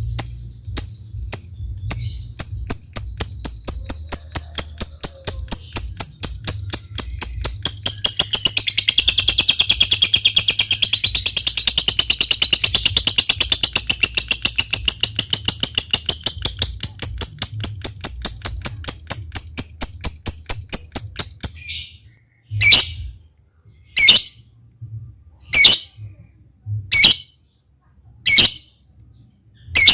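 Lovebird calling in a long run of sharp, high chirps, several a second, that quicken into a continuous chattering trill in the middle: the long 'ngekek' chatter that keepers prize in a lovebird in full song. The chatter stops about two-thirds of the way in and gives way to single shrill calls about every second and a half.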